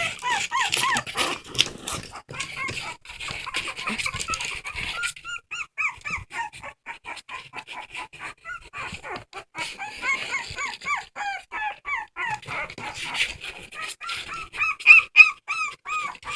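A dog whining and crying in quick series of short, high-pitched whimpers, several a second.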